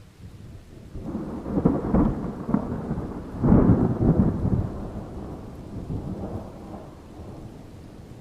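A roll of thunder over rain: the rumble builds about a second in, swells loudest twice, near two and three and a half seconds, then fades away over the next few seconds, leaving the rain's faint steady hiss.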